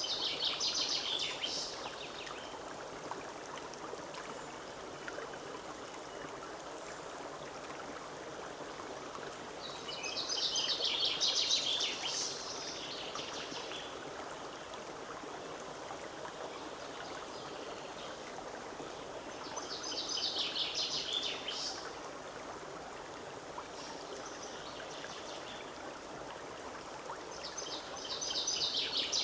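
Forest stream running steadily with an even rush of water. Over it a songbird repeats a quick phrase of rapid high notes, about two seconds long, roughly every nine to ten seconds: four times, at the start, about ten seconds in, about twenty seconds in and at the end.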